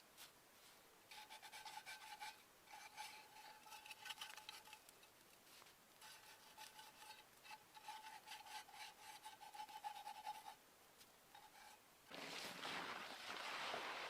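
Faint, rapid, repeated scraping strokes, like rasping or filing, come in runs with short pauses. Near the end a louder crunching sound starts, like steps in snow.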